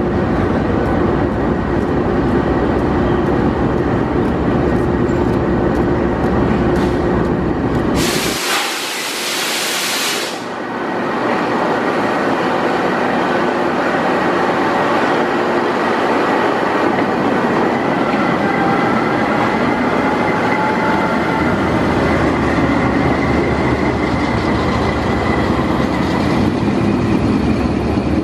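GEU-20 diesel-electric locomotive running as it rolls along the platform and past, then its coaches rolling by with steady wheel and running-gear noise. A loud hiss lasting about two seconds comes about eight seconds in. Faint wheel squeal follows later.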